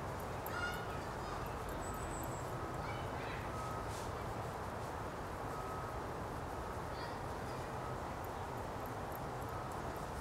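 Steady outdoor background noise with a few short, faint bird calls, one about half a second in, another about three seconds in and a third about seven seconds in.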